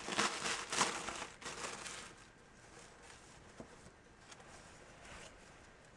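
Packaging crinkling and rustling for about two seconds as a clothing bundle is opened, then only faint handling with a few small ticks.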